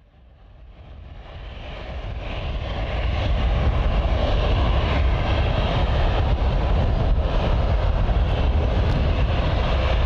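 Dassault Falcon 6X's twin Pratt & Whitney PW812D turbofans running as the business jet taxis, a steady jet hiss over a deep rumble. It swells up over the first three seconds, then holds steady.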